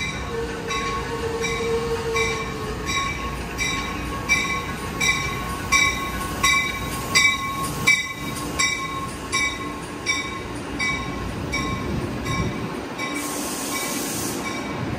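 NJ Transit push-pull commuter train pulling into an underground platform and slowing to a stop: its wheels click over rail joints, the clicks coming further apart as it slows, under a thin steady squeal. A short hiss of air comes near the end as it stops.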